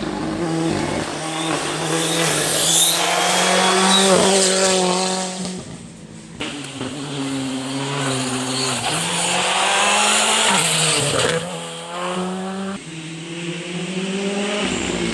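R5 rally car's turbocharged four-cylinder engine at full throttle, its pitch climbing and stepping through gear changes. It lifts off sharply about six seconds in and again near eleven seconds, then pulls hard again.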